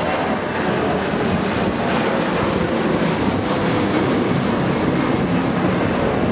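Jet airliner's engines running loud and steady, with a thin high whine coming in about two seconds in.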